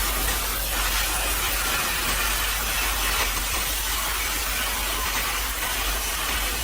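Steady hiss of a high-pressure washer's water spray, with a constant low hum underneath.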